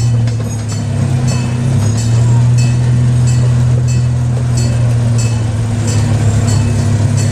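Miniature amusement-park train running: a steady low drone from its drive, with a light click repeating about three times every two seconds.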